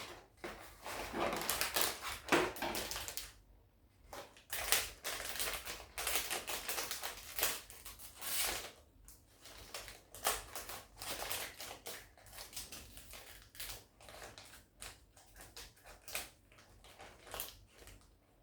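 Plastic model-kit packaging and parts being handled: irregular crinkling and rustling with clicks and taps, in bursts with short pauses.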